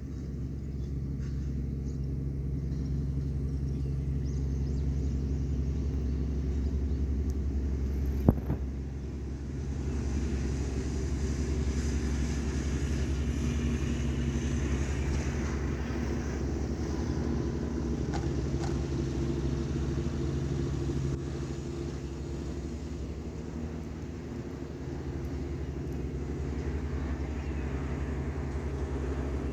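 Steady low drone of work boats' engines running as the vessels head off, with a single sharp click about eight seconds in.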